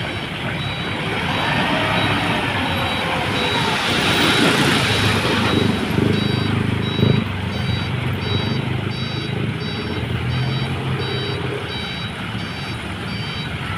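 Hino Dutro dump truck's diesel engine running while it unloads, with a reversing alarm beeping about two to three times a second. A rush of noise swells about four seconds in.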